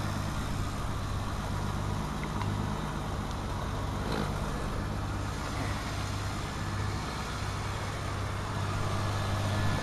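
Eagle Premier engine idling steadily while it warms up after a cold start, the car having sat for two months.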